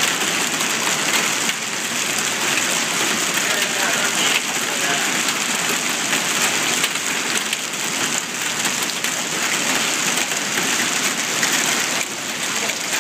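A hail storm: hailstones falling thick and steady, a dense unbroken patter of many small impacts.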